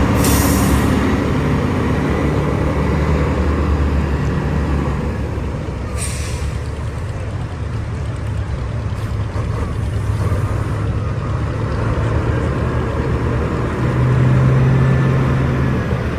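Straight-piped diesel semi-truck engine running hard under load, its pitch holding high and steady and getting louder near the end. There are short bursts of air hiss near the start and about six seconds in.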